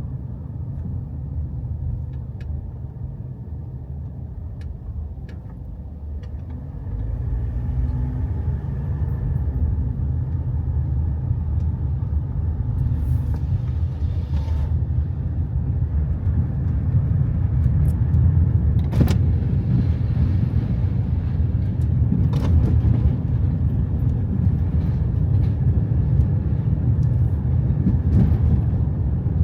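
Car on the move: a steady low road and engine rumble that grows louder about seven seconds in, with a few light knocks.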